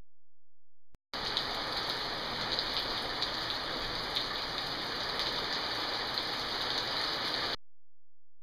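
Heavy rain pouring down in a dense, steady hiss, with many drops ticking through it. It starts abruptly about a second in and cuts off suddenly near the end.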